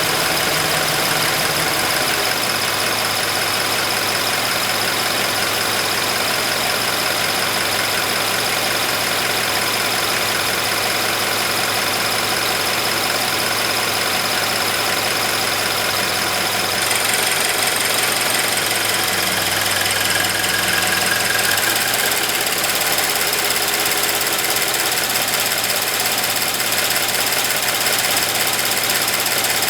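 Subaru BRZ's flat-four engine idling steadily, with a fast chirping tick from its high-pressure fuel pump.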